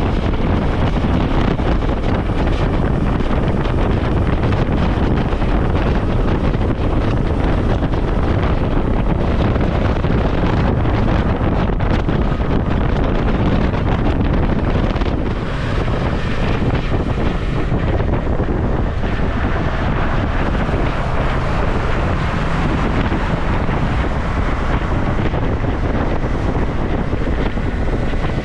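Steady, loud wind noise buffeting the microphone of a Suzuki V-Strom motorcycle riding at speed, drowning out the engine.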